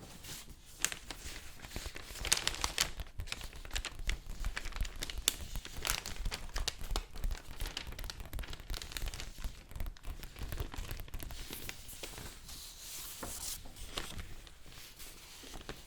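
Paper being crinkled and handled, a dense run of sharp crackles and rustles.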